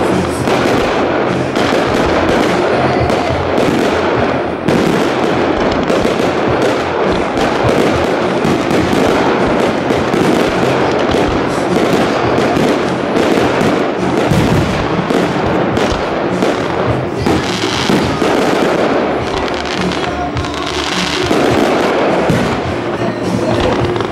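Fireworks display: a rapid, unbroken series of aerial shell bursts and bangs, with music playing underneath.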